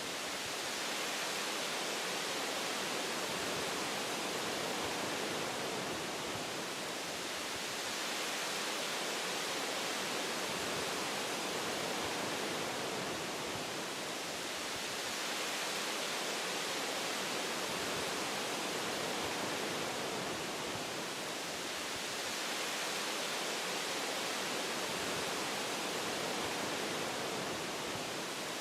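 Wind rushing through tree branches: a steady hiss that swells and eases gently every six or seven seconds.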